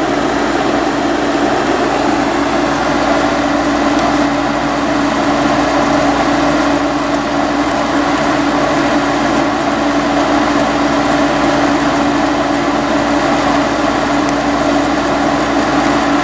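Vintage room air conditioner running loudly and steadily: the fan blowing air over a constant hum.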